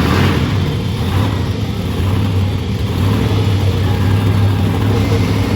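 Monster truck engine running loud and steady under load, a continuous low drone with a rough noisy edge, as the truck spins donuts.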